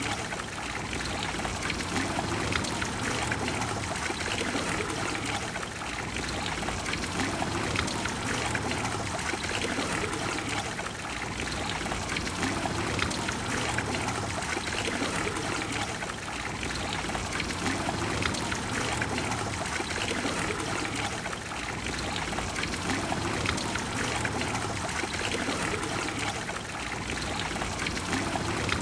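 Water from a large fountain splashing and pouring steadily, a dense even rush with slight swells.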